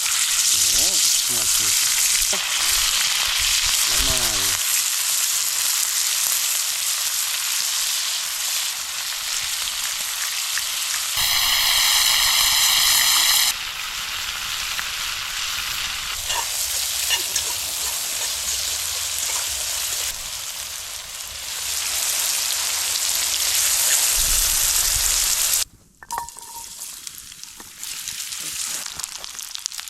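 Meat frying in a pan over a wood campfire, a loud, steady sizzle. Near the end it cuts off abruptly and a much quieter sizzle carries on.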